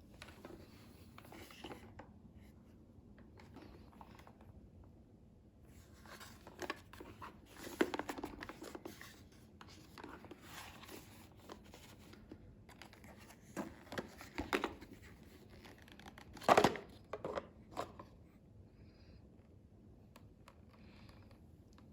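Intermittent rustling, crinkling and tearing of paper, in scattered short bursts with the sharpest one about two-thirds of the way in. It is likely the vacuum cleaner's paper dust bag being handled and torn open to show the dust collected.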